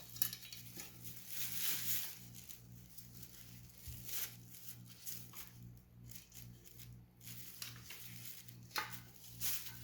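Scattered light clicks and rustles of a car side-mirror base being handled and seated into place, over a steady low hum.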